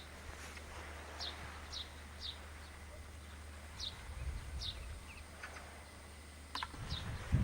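Birds chirping outdoors: short, high, downward-sweeping chirps repeated at irregular intervals, a couple each second at times. A low rumble swells about four seconds in and again near the end.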